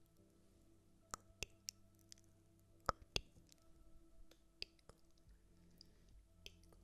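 Irregular sharp clicks and light taps, about a dozen, with the two loudest close together about three seconds in, over a faint steady hum.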